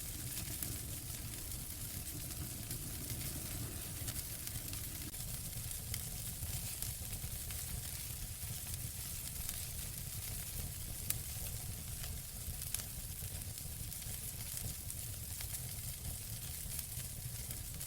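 Wood fire burning in a fireplace: steady crackling and hissing over a low rumble, with two sharper pops, about 11 and 13 seconds in.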